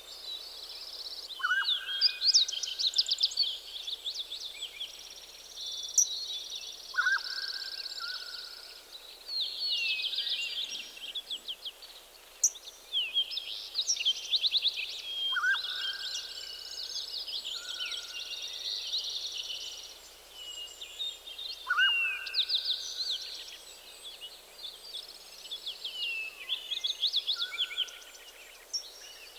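Several songbirds singing together in a forest dawn chorus, with quick trilled and twittering high phrases overlapping almost without pause. A lower whistled call that rises and then holds comes back about every six seconds.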